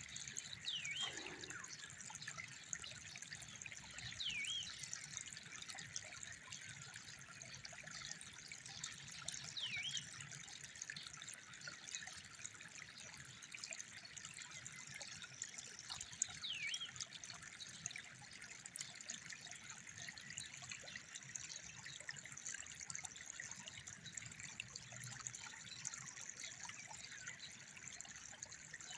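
Steady trickling of running water, with a few short, high chirps now and then.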